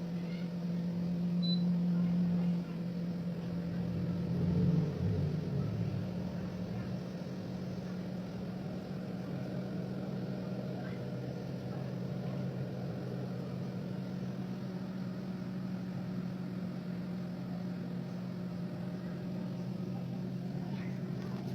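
Creen AG86B air fryer oven running: the steady hum of its convection fan and motor, louder and wavering for the first few seconds before settling to an even drone.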